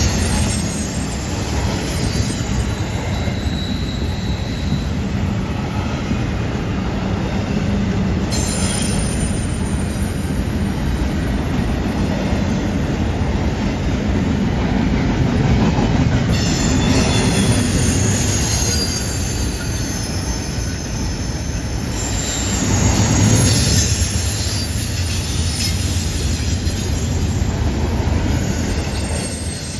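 Freight train cars rolling through a curve: a steady rumble of wheels on rail, with intermittent high-pitched wheel squeal from the flanges on the curve, heaviest in the second half.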